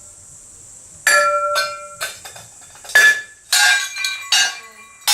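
Fired ceramic pieces from a wood-fired kiln knocking and clinking against each other, each strike leaving a short ringing tone. About seven sharp knocks, starting about a second in.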